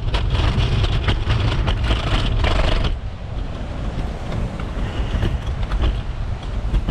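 Kick scooter wheels rolling over a snowy, slushy street: a low rumble with crackling. It gets quieter about three seconds in.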